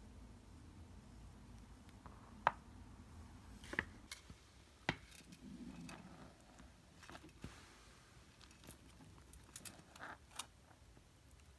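Faint handling sounds: a dozen or so scattered light clicks and taps over a low steady hum.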